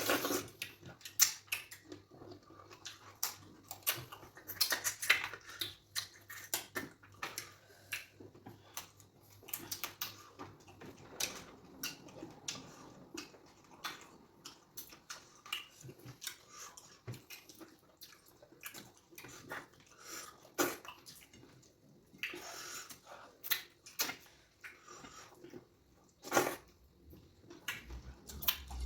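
Close-up mukbang eating sounds: wet chewing, lip smacks and slurps of fufu with okra soup, with occasional light clinks, in a string of short irregular bursts.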